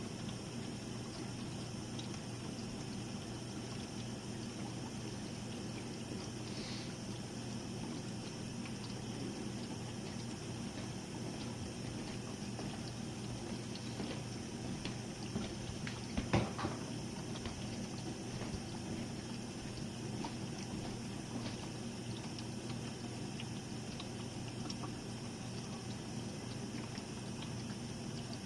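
Jenn-Air dishwasher running: a steady motor hum under the sound of water spraying and sloshing inside the tub. A single sharp knock about halfway through.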